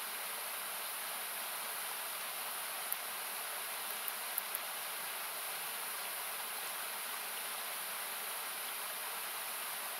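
Steady rush of a nearby river or waterfall, cut back with an equaliser so it sounds like hiss. A few faint crackles of the burning campfire pop through, about three seconds in and a few more around four seconds.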